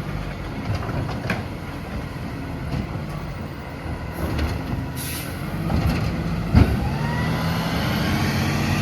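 Freightliner M2 garbage truck's engine running, with a short hiss of air about five seconds in and a single loud bang shortly after, then the engine revving up with a rising whine.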